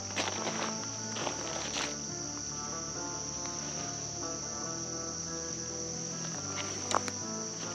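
Insects calling in a steady, unbroken high-pitched drone, with quiet background music underneath and a few light clicks.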